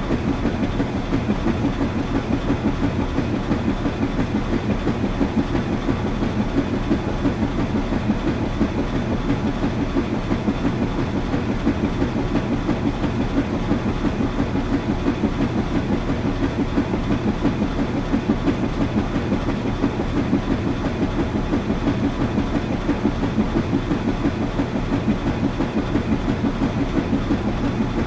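Washing machine running: a steady low rumble with a fast, even pulsing several times a second.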